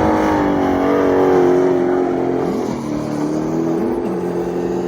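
GM LS2 V8 in a Mazda RX8 drift car held at high revs. Its note eases down over the first few seconds, then holds nearly steady.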